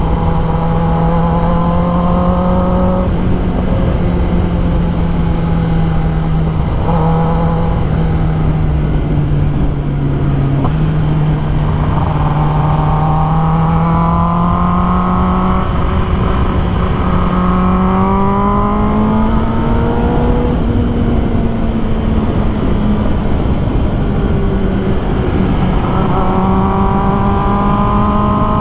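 Kawasaki ZX10R sport bike's inline-four engine running under way, its pitch climbing in a couple of long pulls around the middle, over heavy wind rush.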